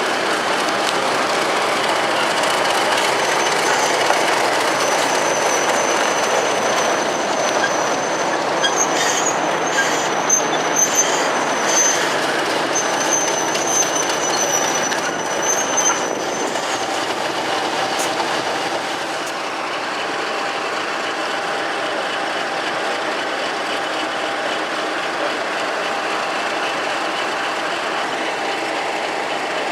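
A train rolling past on the rails, its wheels squealing high and thin through the first half, with clicks over the rail joints, then settling to a steady running rumble.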